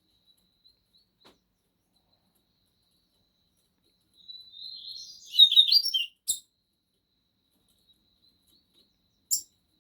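Double-collared seedeater (coleiro) singing one phrase about halfway through, starting soft and rising to loud rapid high twittering, followed by a sharp click; another sharp click comes near the end.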